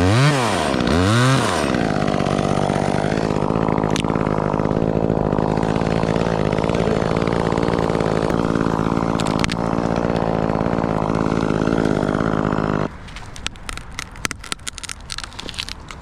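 Chainsaw revved twice in quick succession, then left idling steadily until it is switched off suddenly about thirteen seconds in. A few light clicks and crackles follow.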